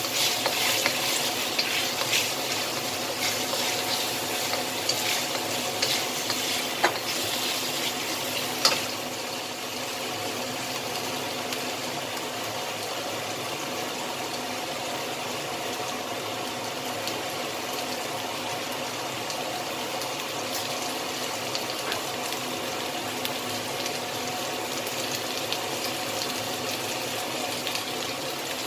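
Chicken wings sizzling steadily in hot oil in a wok. For the first nine seconds or so a wooden spatula stirs them, with scattered knocks and scrapes against the pan; after that only the even sizzle.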